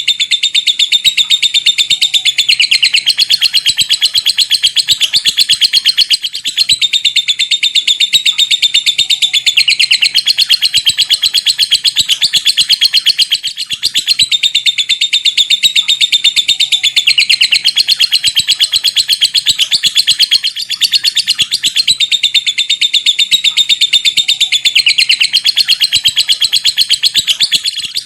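Lovebird giving its long chattering 'ngekek' call: a fast, continuous run of sharp ticking notes ('ngetik'), broken by a short pause about every seven seconds.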